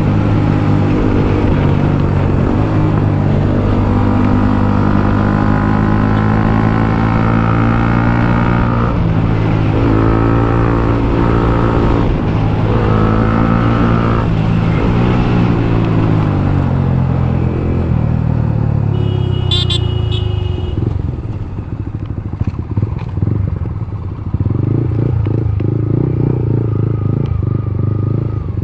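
Motorcycle engine heard from the saddle, its pitch rising and falling through the gears, then dropping as the bike slows to a rough, lower running near the end. A short high-pitched tone cuts in about two-thirds of the way through.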